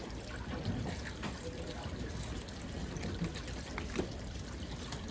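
Water running and trickling steadily, with a few faint knocks.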